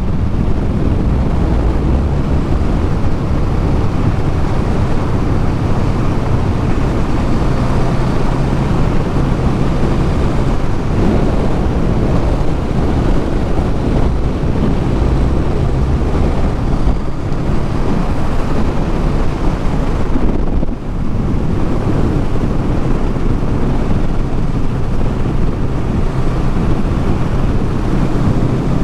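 Motorcycle engine and exhaust running steadily while riding, with wind rushing across the microphone. The sound drops briefly a little after the middle.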